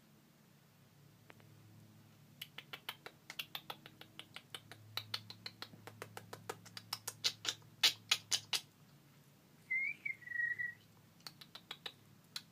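Pet bird making a rapid run of sharp clicks, about six a second, getting louder as they go. It then gives two short whistled chirps, followed by a few more clicks near the end.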